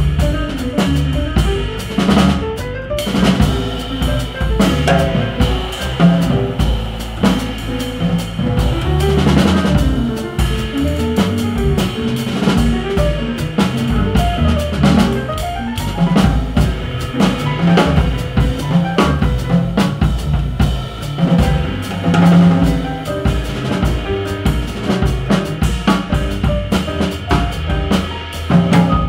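Live jazz piano trio of piano, bass and drums playing, with the drum kit's hits prominent and dense throughout.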